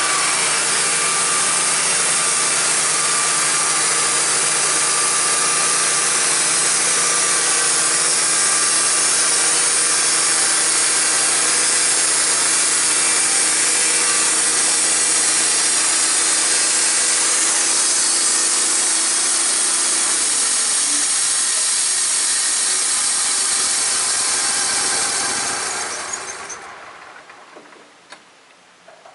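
Band sawmill running steadily, its engine and blade going through a cut. Near the end it winds down and stops, leaving a soft hiss.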